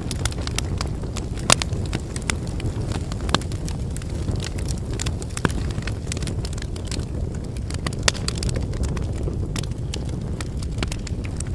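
Wood fire burning, with a steady low roar of flames under irregular crackling and sharp pops from the burning firewood; a few of the pops stand out louder.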